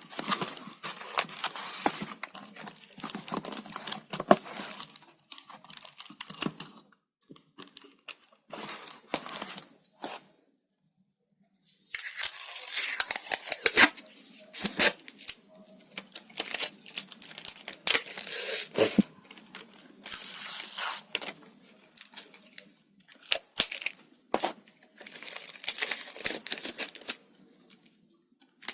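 Sellotape being pulled off its roll in several long noisy pulls, torn off and pressed down, with crinkling handling sounds and small taps in between. There is a brief lull about ten seconds in.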